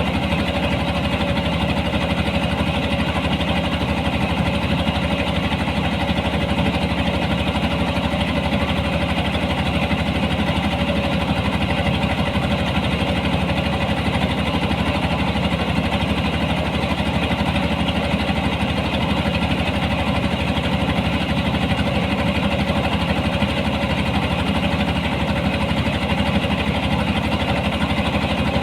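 Engine of a harvesting machine running steadily at constant speed, its pitch and level unchanging.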